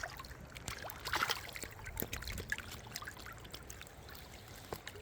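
River water trickling and flowing, with scattered small splashes and clicks.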